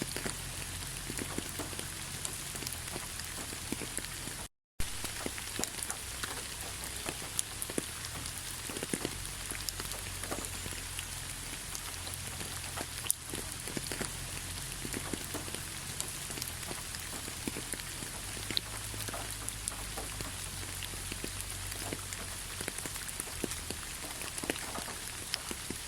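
Steady rainfall with many separate drop hits ticking through a constant hiss. The sound cuts out completely for a moment about four and a half seconds in.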